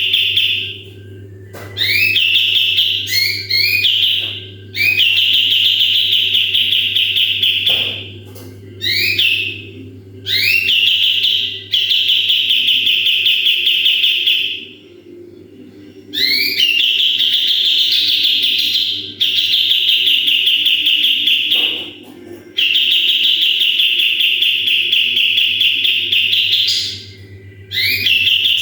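Kapas tembak songbird singing its 'tembakan' song: a run of long, shrill, buzzy trills, each one to five seconds long. Most open with a few quick rising notes, and short pauses fall between them.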